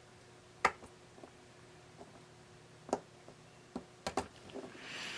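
A few sharp, separate light clicks and taps from small parts and hand tools being handled during a repair of a small radio, with a soft rush of noise near the end.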